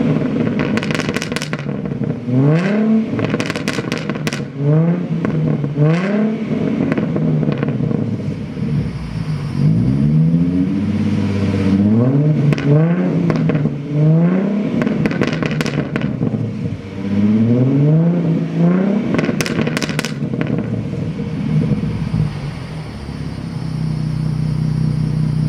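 Ford Mustang's 3.7-litre V6 through a Pypes Pype Bomb axle-back exhaust, revved again and again in quick blips that rise and fall back. Crackles and pops come on several of the falls, and near the end it settles to a steady idle.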